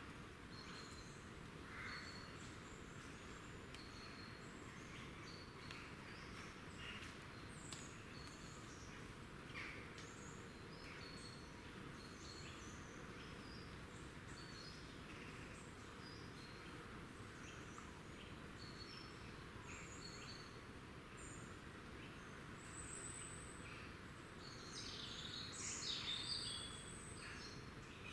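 Woodland songbirds giving many short, high-pitched calls and chirps over a steady background hiss, with a louder, busier burst of calling near the end.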